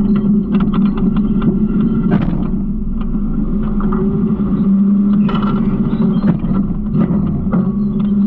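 Garbage truck running steadily, a low hum with frequent knocks and rattles, heard close up from the body of the truck.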